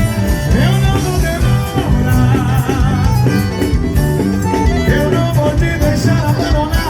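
Live forró band music with a steady driving beat and a voice singing over it.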